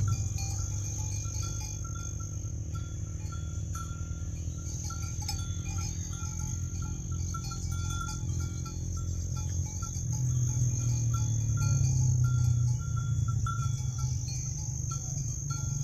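Crickets chirping steadily: a continuous high trill with rows of short repeated chirps. A low rumble runs beneath and grows louder about two-thirds of the way through.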